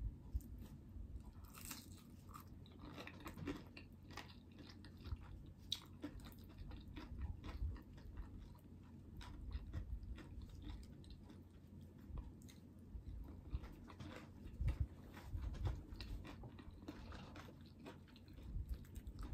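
Quiet, close-up chewing and biting of crunchy cornmeal-breaded fried food, with many small crisp crackles scattered throughout.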